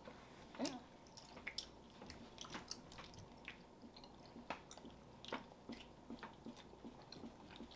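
Faint, scattered soft wet clicks of children chewing gummy bears.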